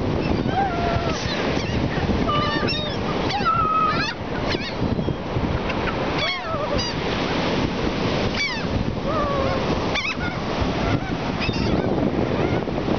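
Several seagulls calling again and again, short cries that rise and fall in pitch, over the steady wash of surf and wind.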